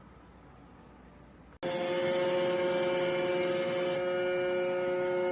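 Low, faint hum, then about a second and a half in the self-emptying base of an iRobot Roomba Combo i5+ switches on its suction motor abruptly and runs loud and steady with a whining tone. The owner reckons this emptying run is probably blocked, since nothing came out of the robot's bin.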